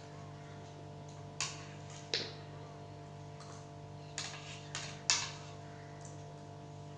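Eating sounds: about five short, sharp mouth noises of someone chewing a meal by hand, over a steady low hum.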